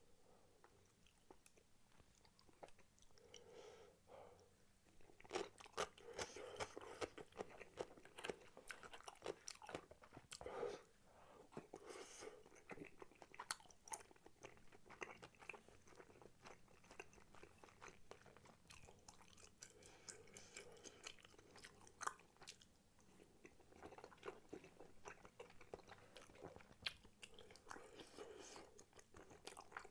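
Close-miked chewing and biting of spicy tteokbokki: quick little mouth clicks and smacks, sparse for the first few seconds and busier from about five seconds in.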